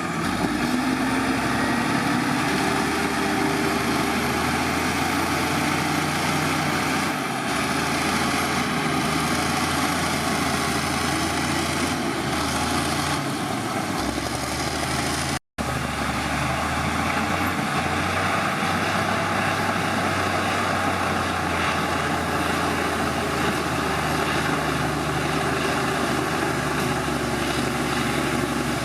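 Heavy diesel engine of earthmoving machinery running steadily. The sound cuts out for an instant about halfway through.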